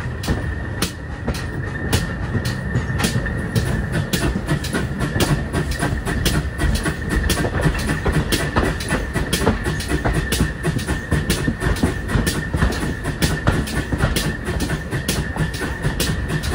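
Steam train running, with a low rumble under an even run of sharp beats, about two a second, and a steady high ringing tone.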